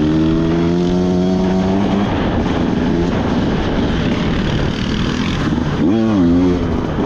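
Off-road vehicle engine running under way, its pitch climbing slowly over the first couple of seconds, with a brief rev up and down about six seconds in.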